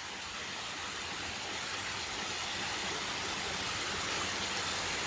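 Waterfall: a steady rush of falling water, growing slightly louder.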